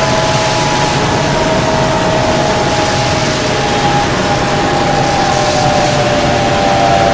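Engines running with a loud, steady roar under several whining tones that slowly fall in pitch, as if winding down.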